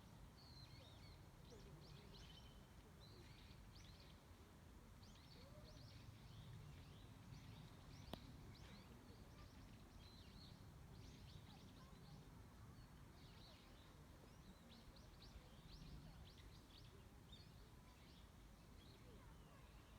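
Faint chirps of small birds, many short high notes scattered throughout, over a steady low outdoor rumble, with one sharp click about eight seconds in.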